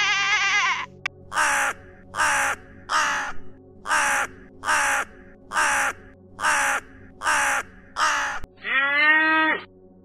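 A crow caws about nine times in a steady series, each harsh call a little under a second apart, after a sheep's bleat ends in the first second. Near the end a calf gives one drawn-out moo.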